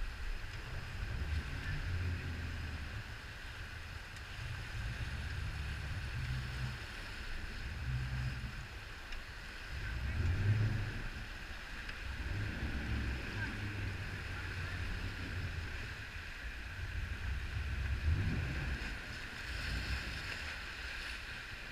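Jet boat running steadily under way, a constant engine whine, with wind gusting on the microphone in an uneven low rumble.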